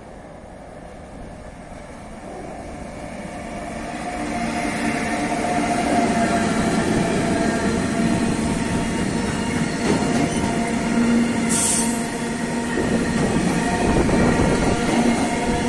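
Freight train of tank wagons hauled by an electric locomotive, growing louder as it approaches over the first few seconds, then passing close by with loud, continuous wheel and wagon rolling noise and a few steady ringing tones. A brief hiss sounds about two-thirds of the way through.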